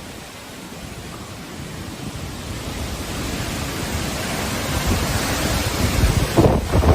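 Hurricane-force wind gusting, a steady rushing noise that grows louder over several seconds.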